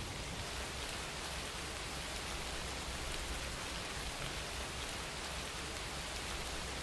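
Steady rain falling, an even wash of patter with fine individual drops heard through it.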